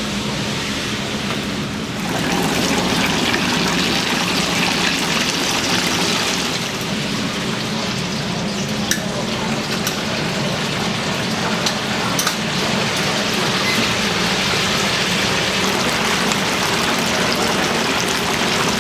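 Chicken deep-frying in a vat of hot oil: a steady bubbling sizzle that grows louder about two seconds in, with a few sharp crackles.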